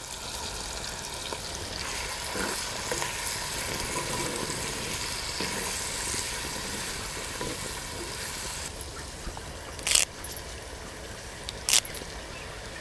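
Chopped onions and green chillies sizzling in hot oil in a clay pot, a steady hiss. The sizzle drops away about nine seconds in, and two sharp clicks follow near the end.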